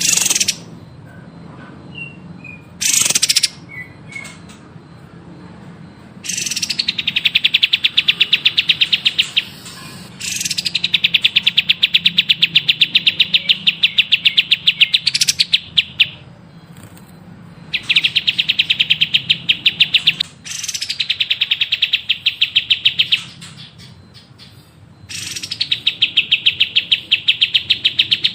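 A songbird singing long, fast, even trills, each a few seconds long and opening with a high falling note, repeated five times with short pauses after two short opening calls.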